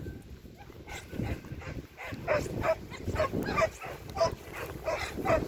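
Border collie giving a quick run of short whimpering yips, about three a second, over a steady rumble of strong wind on the microphone.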